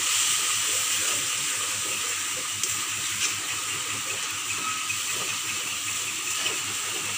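Spice paste (masala) sizzling in hot oil in an aluminium wok as it is stirred with a wooden spatula: a steady hiss with a couple of faint scrapes. This is the masala being fried until the oil separates from it.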